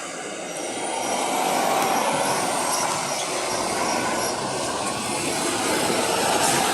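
Stobart road train, a heavy freight vehicle, moving off with a steady rumble that grows louder about a second in. A faint high whine rises and falls over the first few seconds.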